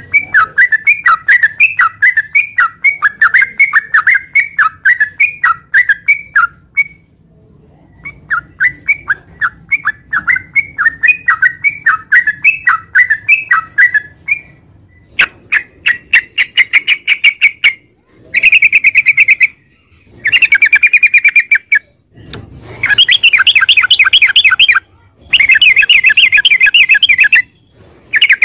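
Yellow-vented bulbul (trucukan) singing: a long run of quick chattering notes, then from about halfway loud, fast rolling trills in bursts of one to two seconds with short gaps between them.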